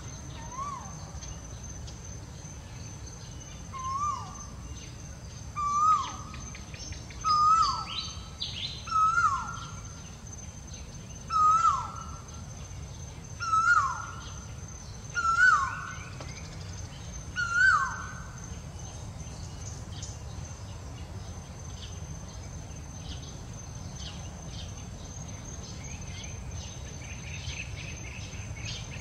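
A bird calling a series of about ten short notes, each sliding sharply downward, roughly one every two seconds. The series climbs a little in pitch and loudness as it goes. A steady high insect drone runs underneath.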